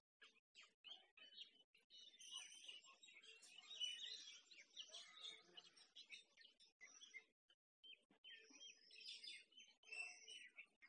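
Faint birdsong: many small birds chirping and twittering, busiest in the middle of the stretch, with a short lull near the end.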